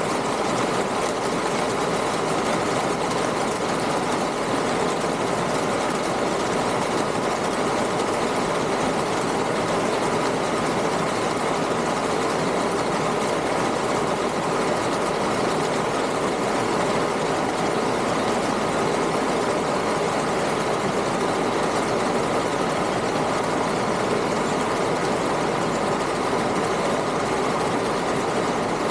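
A steady, unchanging machine-like drone, a constant hum with no breaks or changes in level.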